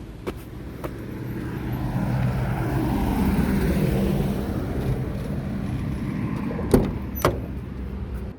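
A car driving past: its engine and tyre noise swell to a peak a few seconds in, then fade away. Two sharp clicks come near the end.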